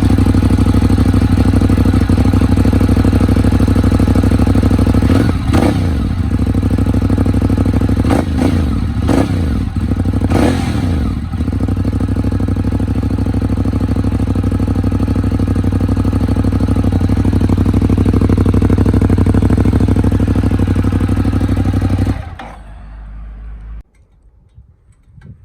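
Ducati Monster 821's 821 cc L-twin running at a steady idle through its exhaust, blipped four times in quick succession about five to eleven seconds in, then switched off about 22 seconds in.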